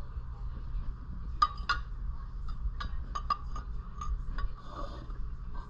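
Light metallic clinks and taps, about eight in a few seconds, irregularly spaced, the first two about a second and a half in the sharpest: hand tools and steel parts of a Predator 212cc engine being handled while working at its flywheel. A steady low hum runs underneath.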